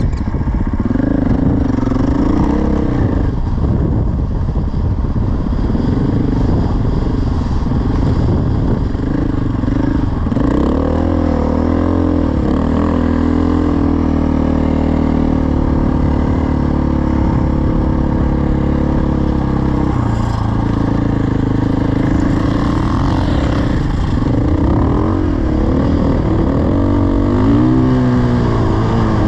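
Dirt bike engine running while being ridden, its revs rising and falling with the throttle and holding fairly steady for several seconds in the middle.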